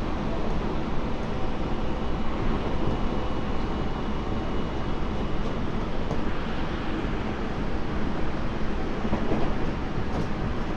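Steady running sound inside a Tobu 30000 series electric train's motor car, which has a Hitachi IGBT-VVVF drive: a constant rumble of wheels on the rails as the train travels along at speed.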